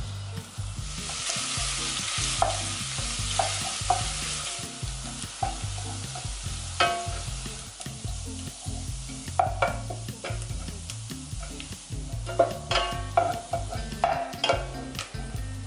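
Julienned ginger sizzling as it fries in hot oil in a pot, being fried into crisps. A wooden spatula stirs it and knocks against the pot several times. The sizzle is strongest in the first few seconds.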